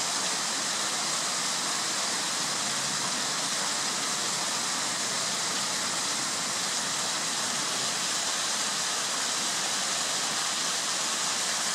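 Running stream water rushing steadily, an even hiss with no bird calls heard above it.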